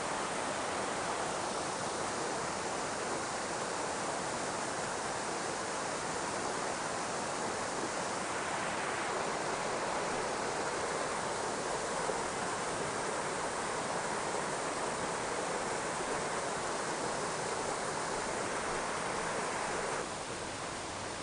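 Mountain stream rushing steadily over rocks, a little quieter near the end.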